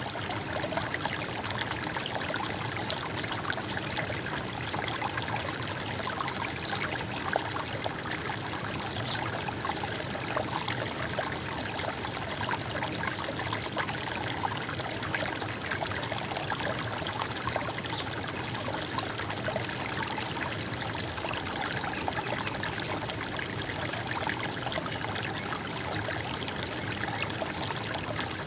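Running stream water, a steady gurgling and trickling that holds even without a break.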